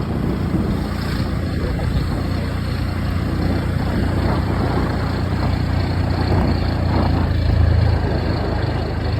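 Motorcycle engine running steadily while riding, a low hum under road and air noise.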